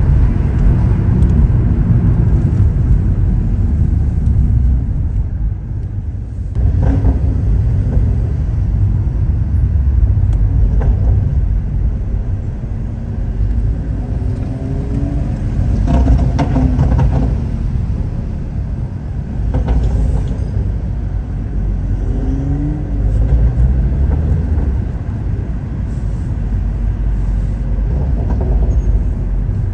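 Stage 2 tuned BMW M140i's turbocharged 3.0-litre B58 straight-six with a custom exhaust, pulling hard several times, its note rising in pitch through each pull, with a few sharp cracks along the way.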